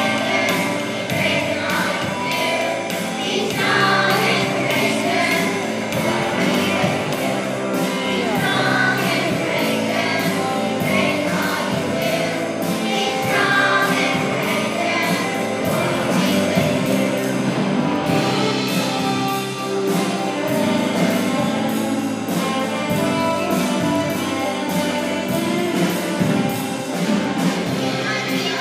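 Music with a choir singing over a full band accompaniment, in a gospel or Christian style.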